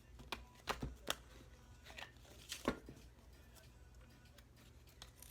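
Thick, stiff archetype cards being shuffled by hand: a handful of soft slaps and clicks as the cards knock together during the first three seconds, then quieter handling.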